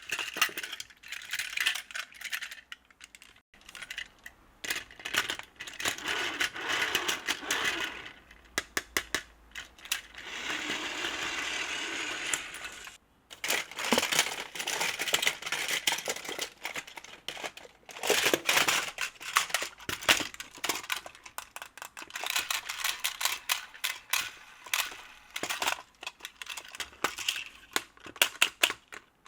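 Plastic toy parts clicking and rattling as they are handled, in quick irregular clusters, with a stretch of rustling partway through.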